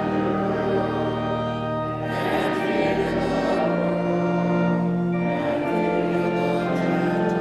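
Church music: singing with long sustained chords underneath that change every second or two.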